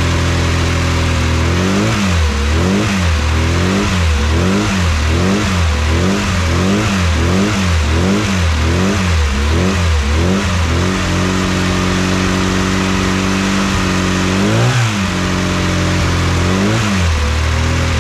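Freshly built classic Mini A-series engine, enlarged to 1310cc with a fast road camshaft and big-valve head, running on its first start. It is blipped on the throttle about a dozen times in quick succession, each rev rising and falling, then holds a steady fast idle before two more blips near the end.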